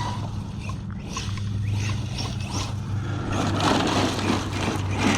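Arrma Mojave 6S brushless RC truck driving hard over grass and rocks: motor whine and tyres scrabbling, busiest from about halfway through, over a steady low hum.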